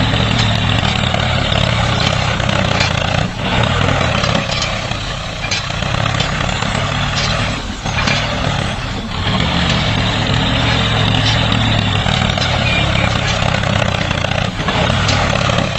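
Small diesel engine running steadily, with brief dips about three, eight and nine seconds in.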